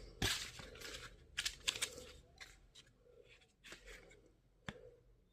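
Stationery and its packaging being handled and unpacked. Faint rustling and tearing of wrapping in the first couple of seconds, then a few scattered clicks and taps.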